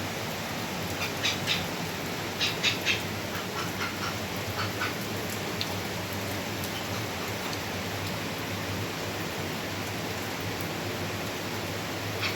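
Steady hiss with a low hum, broken by a handful of short, sharp animal calls, grouped in quick clusters during the first five seconds.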